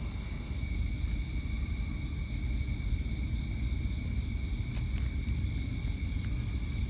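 Train passing a railroad crossing: a steady low rumble, with a steady high-pitched buzz over it.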